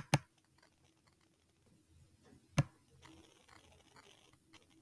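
Computer mouse clicking a few times: two quick clicks together at the start and a single click about two and a half seconds in, over faint room tone.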